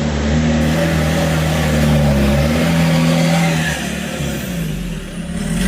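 Off-road 4x4's engine revving under load, its pitch stepping up and down, easing off somewhat about four seconds in.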